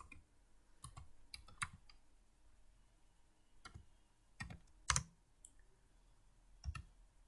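Scattered keystrokes on a computer keyboard: irregular single clicks and short runs of taps, the loudest about five seconds in.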